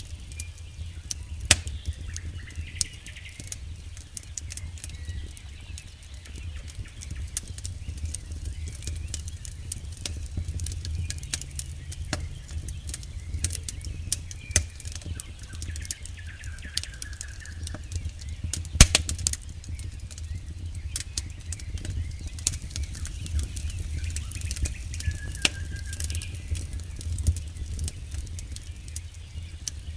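Wood fire burning: irregular sharp crackles and pops over a low steady rumble, with one louder pop about two-thirds of the way through. A few faint, short high chirps now and then.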